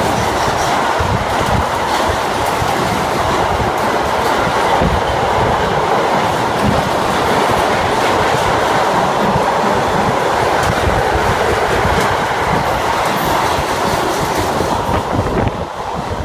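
Double-deck car-carrier wagons of a passing train rolling by, the wheels running over the rails in a steady loud noise that drops away suddenly near the end as the last wagon goes past.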